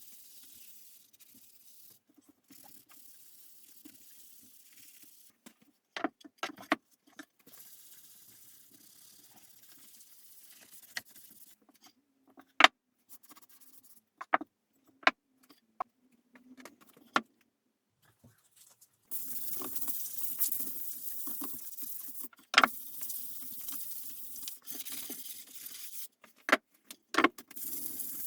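Sharp clinks and knocks of small hard objects being handled, then from about 19 s a steady rush like water running from a tap, with a few more clinks over it.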